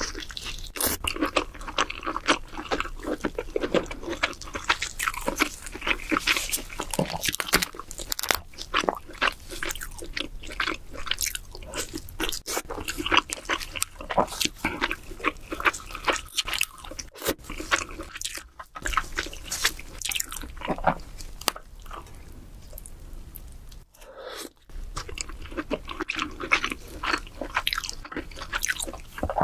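Close-miked eating of king crab: crunching, cracking and wet chewing in quick, irregular clicks, with a short lull about three-quarters of the way through.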